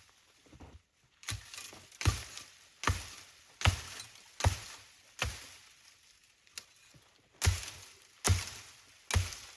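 Repeated chopping blows, about one every 0.8 s, with a short break near the middle.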